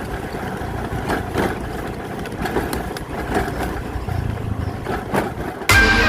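An engine running steadily at a low, even pitch, with scattered clicks over it. Music starts abruptly near the end.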